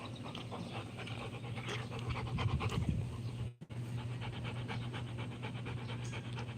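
A Rottweiler panting rapidly, over a steady low hum. The sound drops out for a moment just past halfway.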